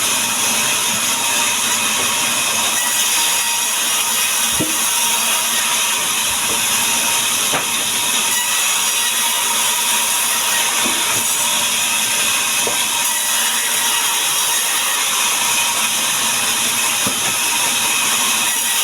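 Power saw cutting wood into boards: a steady hissing noise that holds an even level throughout, with a few faint knocks.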